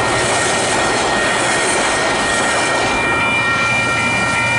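Passenger train passing over the level crossing, a loud, steady rush of wheel and rail noise whose high end eases about three seconds in. Over it, the crossing's Western Cullen Hayes electronic bells ring steadily.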